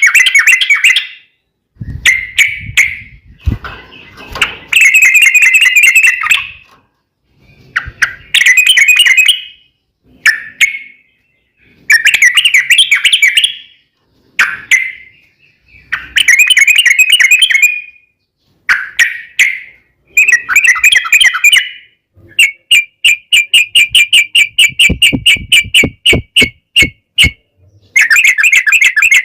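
Yellow-vented bulbul (trucukan) singing loudly: short, bubbly, warbling phrases repeated after brief pauses. About two-thirds of the way through they give way to a fast run of short repeated notes.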